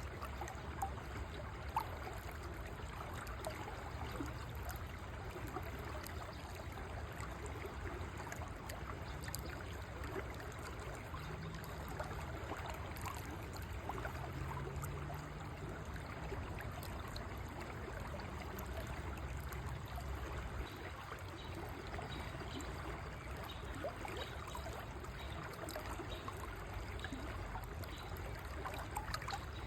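River water flowing steadily, a continuous babble and trickle with a low rumble underneath.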